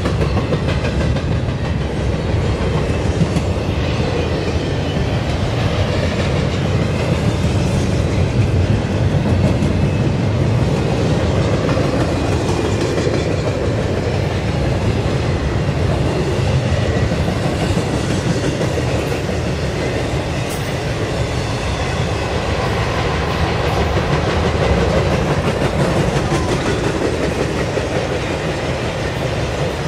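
Double-stack container cars and trailer-carrying cars of a Union Pacific intermodal freight train rolling past: a steady rumble of steel wheels on rail with scattered clicks.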